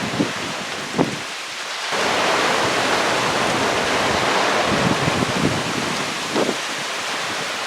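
Thunderstorm wind gusting, a rushing noise that swells about two seconds in, with wind buffeting the microphone in low thumps.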